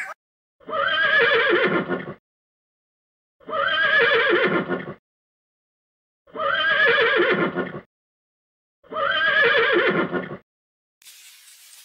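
A horse whinnying four times, the same call repeated with dead silence between. Each whinny lasts about a second and a half and falls in pitch.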